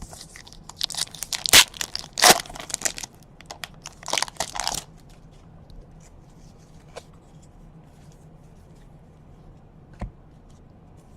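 Baseball card pack wrapper being torn open and crinkled by hand. A dense run of crackling and tearing lasts about five seconds. A few faint clicks follow, and there is a single knock near the end.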